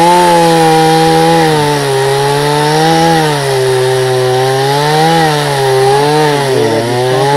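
Chainsaw running at high throttle while cutting into wood, its pitch sagging and recovering as the chain loads in the cut, with a deeper dip near the end.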